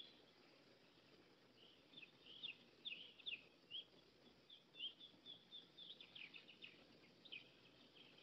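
Faint birdsong: many short, scattered chirps from small birds, heard over a low hiss.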